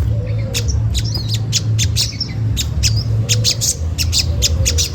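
Olive-backed sunbird giving its sharp 'cret cret' chip calls in a quick series of about four a second, over a steady low hum.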